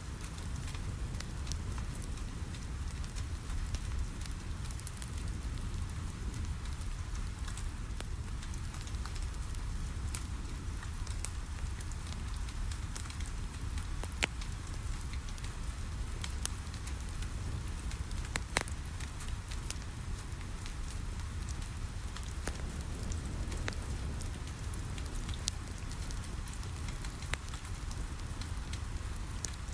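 Rain falling steadily on a window, a continuous hiss over a low rumble, with a wood fire in a fireplace crackling through it in scattered sharp pops.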